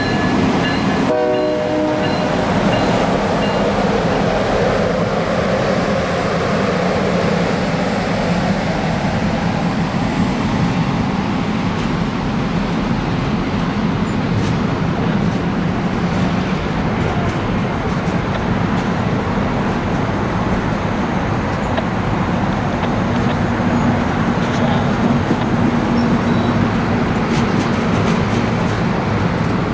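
Train locomotive horn sounding a chord that cuts off about two seconds in. It gives way to the steady rumble of a train rolling past.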